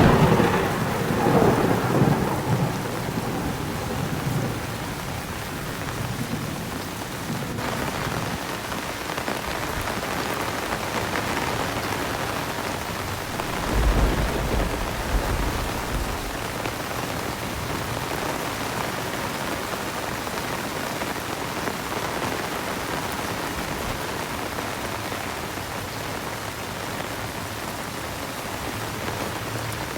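Heavy rain pouring steadily, with a sharp thunderclap right at the start that rumbles on for a few seconds, and a second, lower roll of thunder about halfway through.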